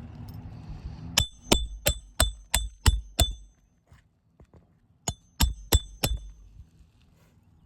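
Hammer striking a steel roof snake to drive 1 1/4" roofing nails into a shingle: seven quick ringing metallic blows at about three a second, a pause, then four more.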